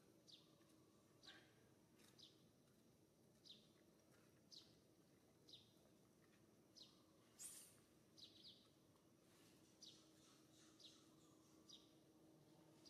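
Faint bird chirps: short, high notes that fall in pitch, repeated about once a second, the loudest a little past the middle, over a faint steady low hum.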